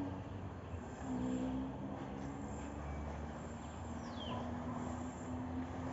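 Steady low hum of a motor vehicle engine running, over outdoor background noise, with one short falling bird chirp about four seconds in.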